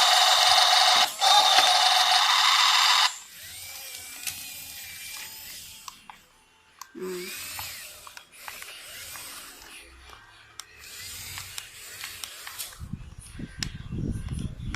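Battery-powered toy excavator running: a loud mechanical whirring for about three seconds, broken briefly about a second in, followed by quieter whirs and clicks.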